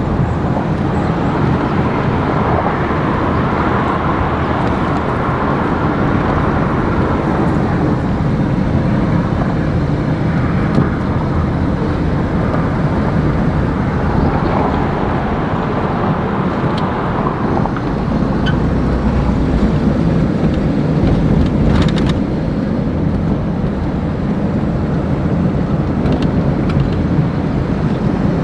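Steady rumbling noise of a motor vehicle on the move, with no distinct engine note or events.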